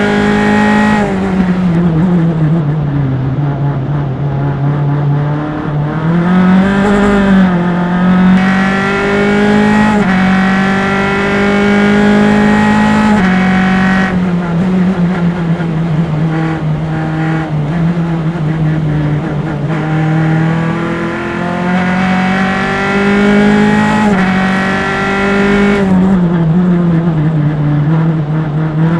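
Single-seater formula race car's engine at racing speed, heard from mics on the engine. The engine note climbs steadily under acceleration, then falls away as the car slows, several times over as it laps the circuit.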